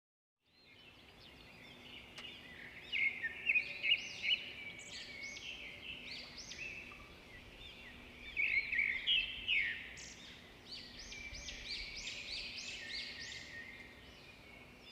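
Several small birds chirping and twittering together in a busy, overlapping chorus, loudest around three to four seconds in and again around nine seconds. A faint steady low hum lies beneath.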